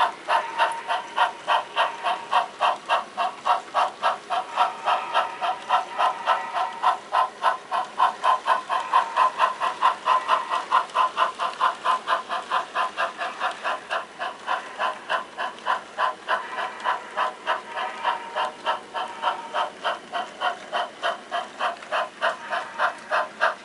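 HO scale model steam locomotive's sound decoder chuffing steadily through a small speaker, about three chuffs a second, as the engine works cars during a switching move.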